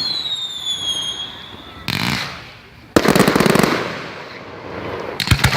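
Fireworks going off: a whistle fading out, a bang about two seconds in, a louder bang with a crackling tail about a second later, then a quick cluster of sharp cracks near the end.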